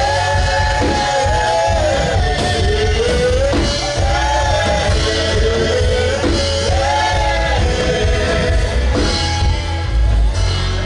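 Worship band music with heavy steady bass under a slow melody of long, arching held notes, sung without clear words.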